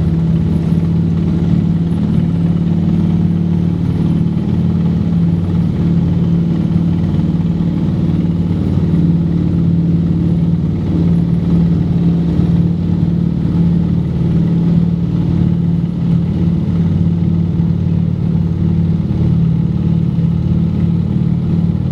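Junkers Ju 52 trimotor's three radial engines running steadily, a low, even drone.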